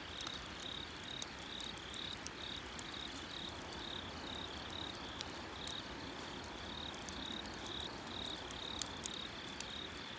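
Bonfire crackling with scattered sharp pops, one louder pop near the end, over an insect chirping steadily in short pulses repeated a few times a second.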